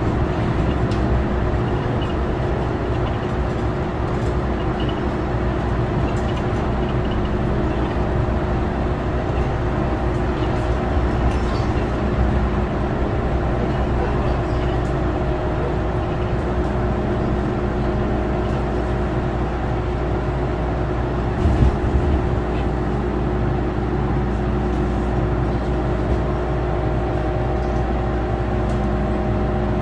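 MTR M-Train electric multiple unit running along the line: a steady rumble of wheels on rail with a low, even motor hum. A single brief knock about two-thirds of the way through.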